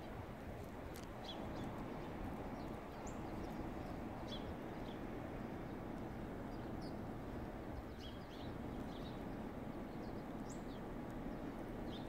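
Small birds chirping: short, high calls scattered every second or so, over a steady low rumble of outdoor background noise.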